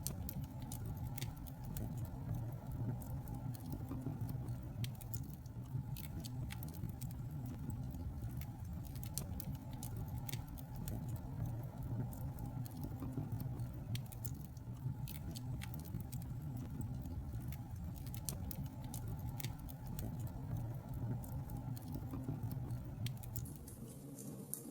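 Wood fire burning, with a steady low rumble and frequent sharp crackles and pops at irregular intervals.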